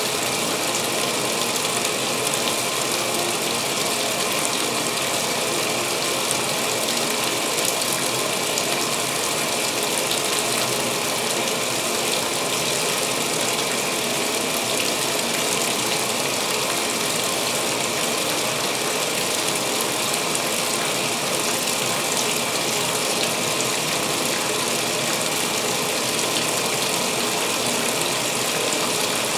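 Speed Queen top-load washer filling for its pre-wash: water pouring steadily into the tub.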